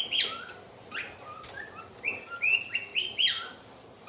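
Pet birds chirping: short chirps that rise and fall in pitch, a few scattered in the first two seconds, then a quick run of about eight.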